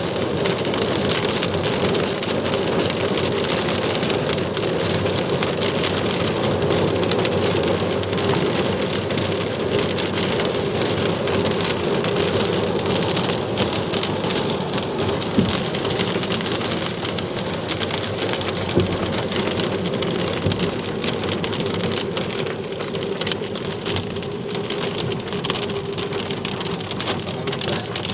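Rain falling steadily, with a steady low hum underneath and a sharp knock about halfway through.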